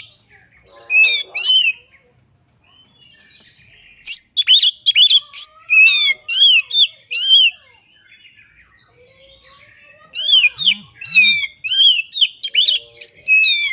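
Oriental magpie-robin (kacer) singing loudly in rapid runs of repeated sharp, whistled notes. There is a short burst about a second in, a longer run from about four to seven and a half seconds, and another from about ten seconds to the end.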